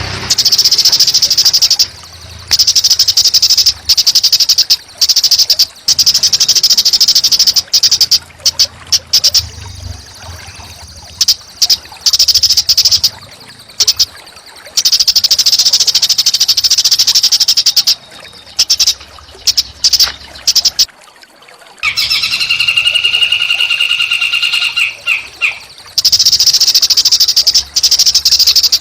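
Small songbird singing long, high, very rapid buzzing trills, each a second or two long, repeated with short gaps. About three-quarters of the way through, a lower, steadier trilled note holds for about three seconds.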